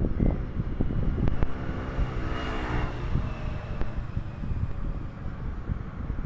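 Steady low outdoor rumble, with a passing engine's hum coming up about two seconds in and fading out again.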